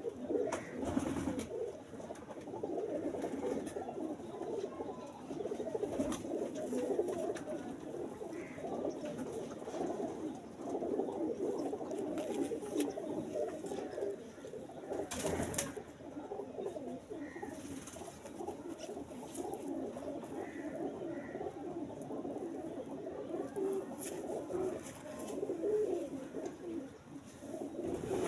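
Domestic pigeons cooing continuously, several voices overlapping, with a few short knocks.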